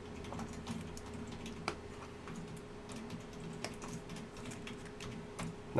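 Faint, irregular light clicks and taps from small objects being handled at a desk, over a low steady hum.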